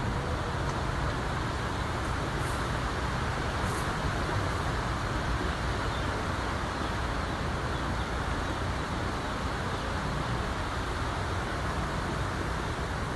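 Strong wind blowing over the microphone: a steady rush with a heavy low rumble.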